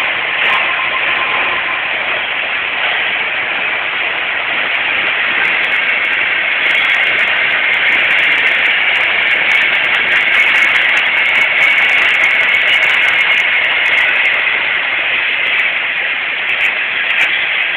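Train passing, a steady loud rush of wheel and car noise that does not let up. A faint steady tone fades out about two seconds in.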